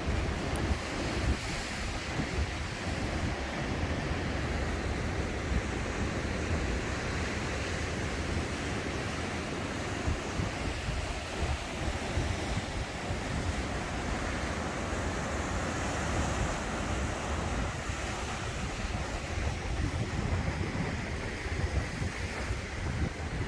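Ocean surf with wind buffeting the microphone: a steady rush of waves and a deep wind rumble.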